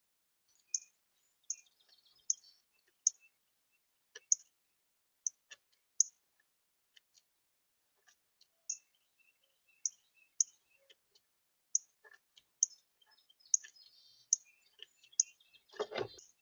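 A small bird gives short, sharp, high chip calls over and over, roughly one a second, with faint clicks between them. Near the end a louder rustling thump is heard, like something landing on or bumping the feeder.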